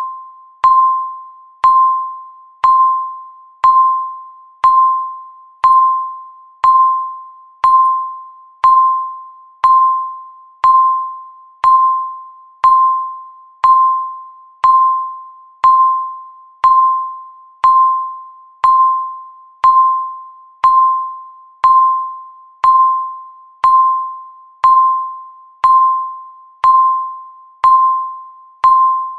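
Countdown timer's electronic tick: a short, sharp ping at the same pitch once every second, each fading quickly before the next, keeping a steady beat.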